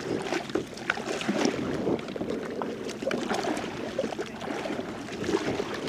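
Water sloshing and splashing around a kayak as it is paddled, with scattered light knocks and clicks.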